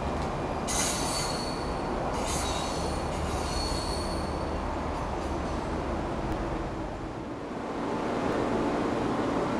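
Train wheels squealing on the rails, two high-pitched spells in the first few seconds, over a steady low rumble of a train; the rumble grows louder near the end.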